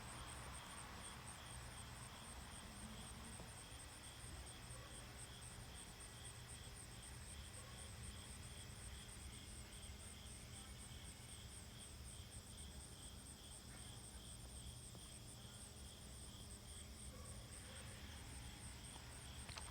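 Faint insects chirping outdoors in a steady, high-pitched, rapidly pulsing chorus, over a low background rumble.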